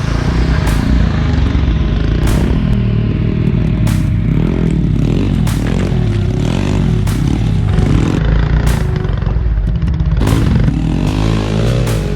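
Pitbike's small single-cylinder four-stroke engine revving up and down repeatedly under load, with scattered knocks and clatter.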